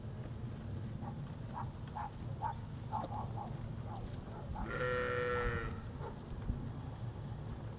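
A sheep bleats once, a wavering call about a second long, about five seconds in, over a steady low rumble.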